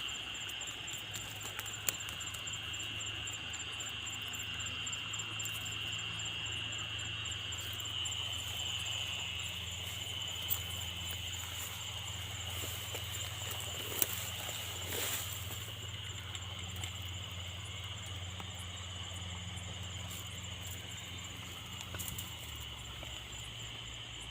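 Insects chirping steadily: a continuous high trill with a faster pulsing chirp above it, over a steady low hum and a few faint clicks.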